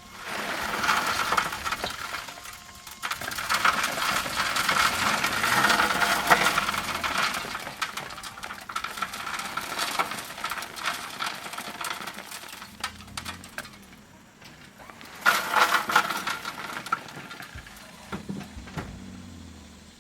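Crushed stone pouring and rattling as it slides off a mini truck's dump bed, a dense clatter of small rocks that builds, runs for several seconds and tapers off. About fifteen seconds in, a second shorter rush of stone follows.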